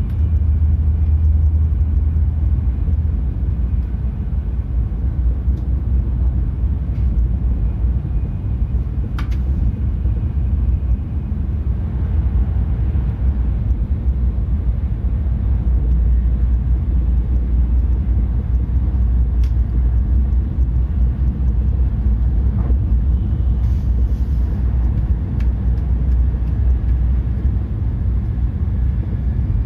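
Tohoku Shinkansen train running, heard from inside the passenger car: a steady low rumble, with a couple of faint clicks.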